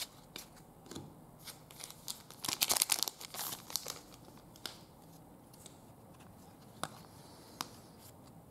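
Trading-card pack wrapper crinkling and tearing, with scattered light clicks of cards being handled; the crinkling is loudest and densest for about a second near the middle.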